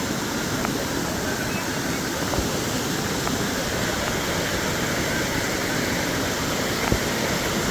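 Waterfall water rushing steadily over rock, with a faint knock twice.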